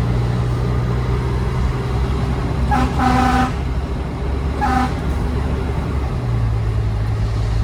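Fire truck's horn honked twice, a longer blast about three seconds in and a short one about a second later, over the steady drone of the truck's engine as it drives.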